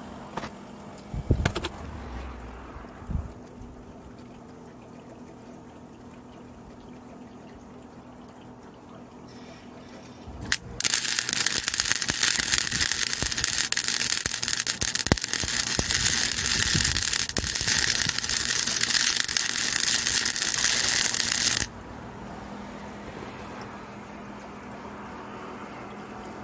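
Welder laying a bead on a sheet-metal rust-repair patch: a loud, steady crackling hiss that starts about ten seconds in, lasts about eleven seconds and cuts off sharply. A few knocks come shortly before it, near the start.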